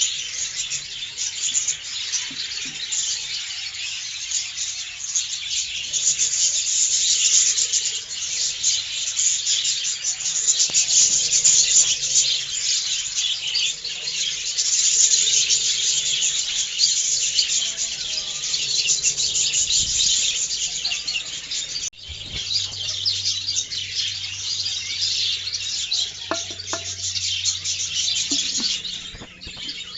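A flock of budgerigars chattering and chirping continuously, a dense high twittering with a brief break about two-thirds of the way in.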